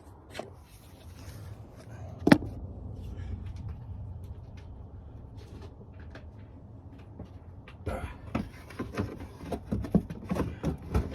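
A sharp plastic click about two seconds in, then from near the end a run of quick clicks and light knocks, as car body trim and plastic clips are handled and pushed into place, over a steady low hum.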